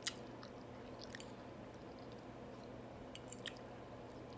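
Faint chewing of a mouthful of soft fried butternut squash, with a few small mouth clicks, over a low steady hum.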